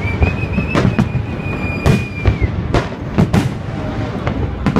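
Fireworks salute: about half a dozen sharp bangs of bursting shells over a continuous low rumble, with a high, nearly steady whistle through the first half that drops away about halfway in.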